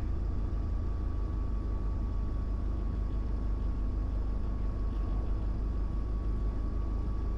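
Diamond DA20 light aircraft's engine and propeller running steadily at low taxi power, an even low drone with a faint steady high hum over it.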